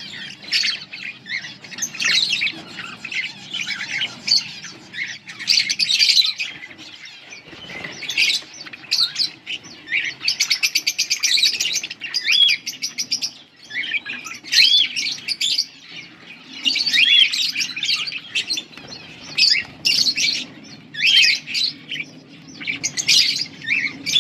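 Budgerigars chattering: a continuous jumble of short chirps and warbles, with a quick rattling run about halfway through.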